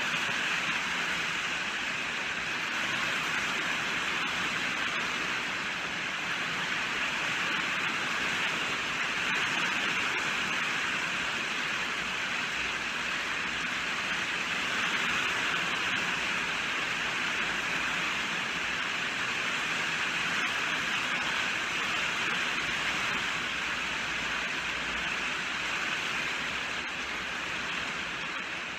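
Steady rainfall: an even, unbroken hiss of rain with no separate drops or thunder standing out.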